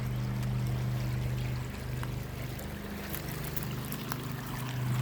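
Released water rushing and pouring through an eroded channel, with a steady low hum underneath.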